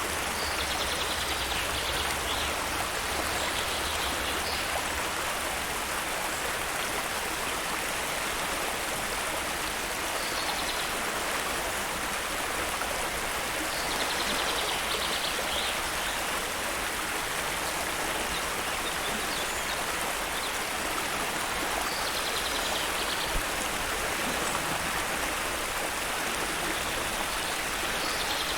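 Waterfall water rushing steadily, an even hiss with no breaks. Short high trills recur over it every several seconds.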